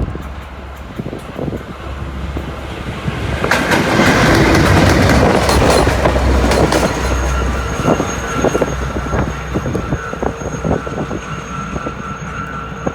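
Long Island Rail Road train passing through the station, its wheels clicking over the rails, growing loud about three and a half seconds in. A steady high whine runs under it through the second half.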